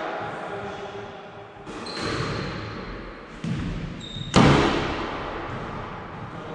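Squash ball hits from racket and walls: three sharp, echoing smacks a second or two apart, the loudest about four seconds in, ringing around the court.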